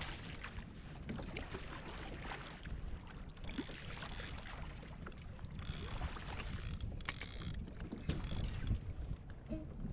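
Water sloshing and splashing against a kayak hull, with wind buffeting the microphone; the splashing hiss comes in patches from a few seconds in until near the end.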